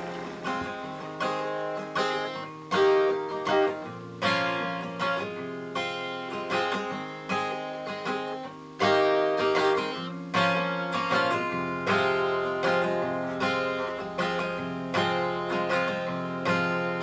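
Acoustic guitar strumming chords in a steady rhythm, the instrumental introduction of a song before the singing comes in.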